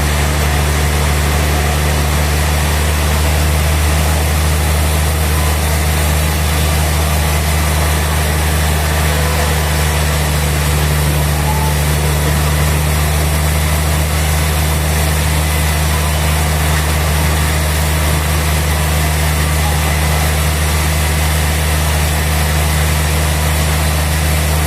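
Sawmill machinery running steadily: a constant low engine-like hum with a steady hiss over it, unchanging throughout.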